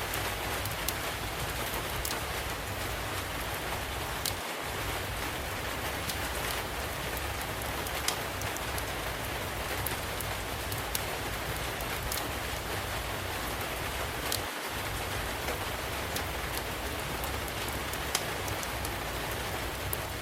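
Steady rain with scattered sharp pops and crackles from a log fire every second or two.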